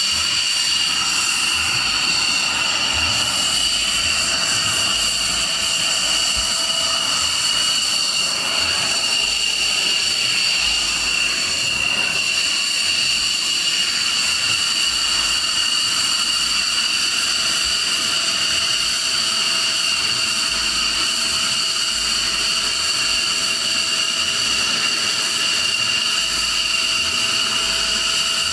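Jet turbine running at a constant speed: a steady high-pitched whine over a rushing noise.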